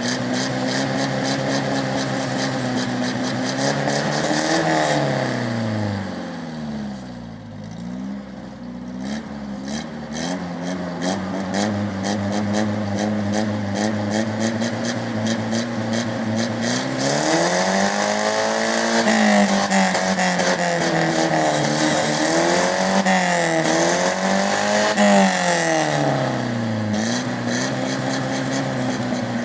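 Exhaust of a 1996 Ford Maxi's non-turbo 2.0-litre petrol engine, idling and being revved by hand. One rev rises and falls back to a low idle early on. Later the revs come up and are held higher with a few dips and blips, then drop back to a steady idle near the end.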